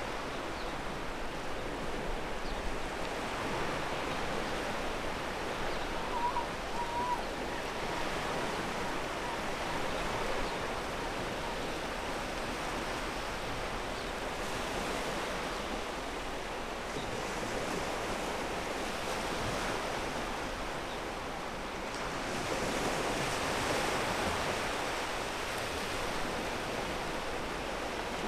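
Ocean waves washing onto a pebble beach, a steady rush of surf that swells louder a few times, most strongly near the end.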